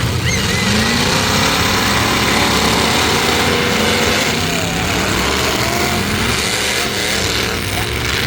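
Demolition derby trucks' engines running loud and revving, steady throughout with shifting pitch.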